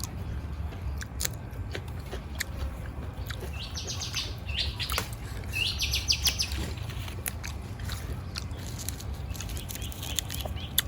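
A bird calls in three short bursts of rapid repeated high notes around the middle. Scattered small clicks and a steady low rumble run underneath.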